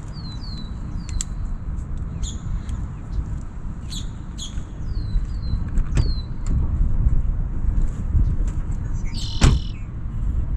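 Outdoor ambience: a steady low rumble with a bird's short falling chirps, repeated in quick runs of three or four, and a few scattered clicks, one sharper click near the end.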